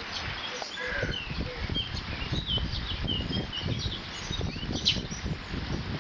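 Water running and splashing through a beaver dam, with small birds chirping in short high calls over it.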